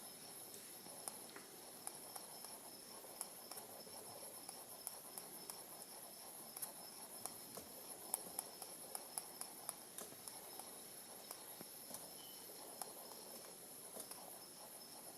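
Spinning gyroscope giving off a faint, steady, high-pitched whine, with light irregular clicks ticking through it.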